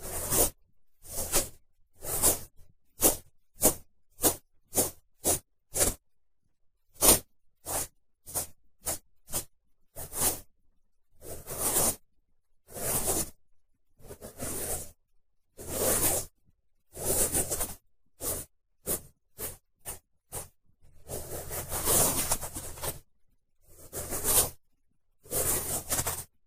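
Cotton swab rubbing and swirling in the ear of a binaural microphone. It makes a series of short, separate rubbing strokes with longer continuous rubs in between, the longest about three-quarters of the way through.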